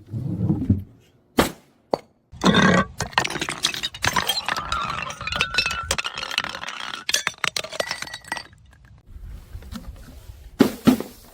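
Glass bottles breaking and being crushed: sharp cracks, then a long run of dense crunching and clinking shards with a faint ringing of glass, and two more sharp cracks near the end.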